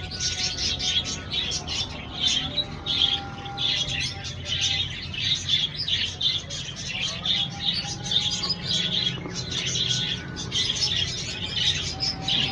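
Lovebirds chattering, a dense stream of rapid high chirps and tweets that never stops.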